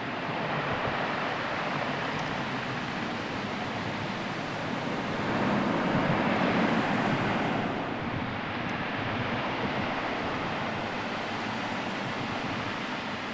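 Sea waves washing onto the shore, a steady rush that swells louder with one bigger wave about halfway through.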